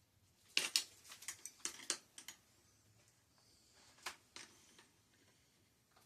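Small hard clicks and clatters from tools and bicycle parts being handled during a teardown: a quick run of knocks over about two seconds, then two more clicks a couple of seconds later.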